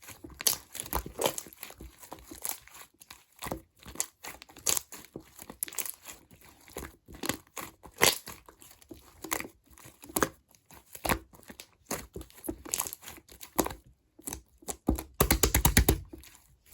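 Clear slime being squeezed and pressed by hand, giving irregular crackling pops and clicks; near the end comes a quick, dense run of pops.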